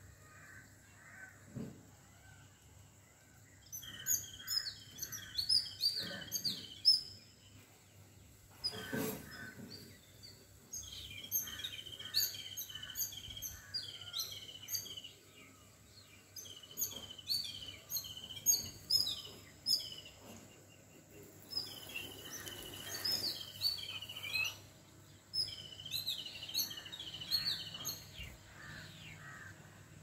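Songbirds chirping outdoors in bouts of quick, high repeated phrases, with short pauses between the bouts.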